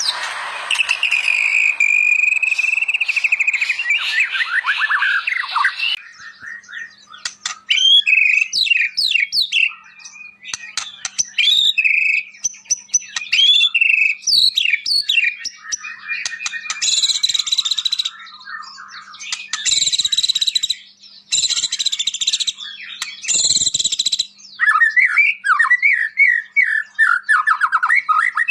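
White-rumped shama (murai batu) in full, varied song: rapid trills and a held whistle, then a sudden change to a run of varied whistles and chirps. Four harsh, buzzy rasps follow partway through, and near the end come fast, falling trills.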